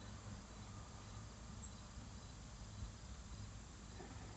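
Faint, steady insect chirping over a low background rumble.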